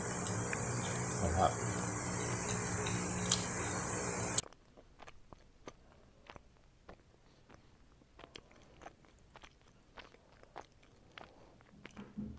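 Steady room hum and hiss that cuts off suddenly about four seconds in, leaving faint, irregular crisp clicks of someone chewing crunchy stir-fried bitter gourd.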